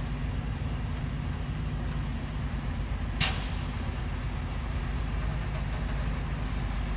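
Heavy diesel engine of earthmoving machinery running steadily, with a sudden sharp hiss about three seconds in that fades away over the next second or two.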